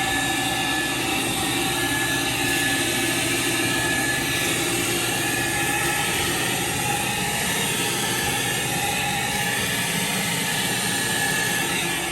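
Hot-water carpet extractor running, a steady rush of suction air with a thin high whine from its vacuum motor.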